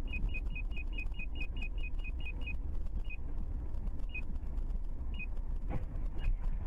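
Car running on the road, heard from inside the cabin as a steady low rumble, with a short high-pitched electronic beep. The beep repeats quickly, about five times a second, then slows to about one a second some two and a half seconds in.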